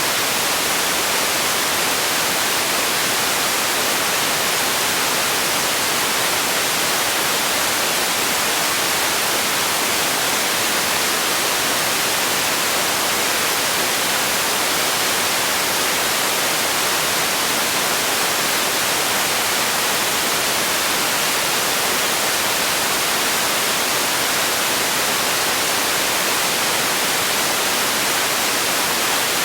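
Steady synthetic hiss like white noise, unchanging throughout, strongest in the high frequencies and thin in the bass.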